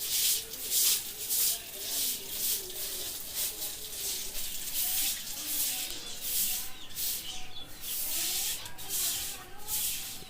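Rhythmic scrubbing strokes, about two a second, like a cloth or brush rubbed back and forth over a surface during cleaning.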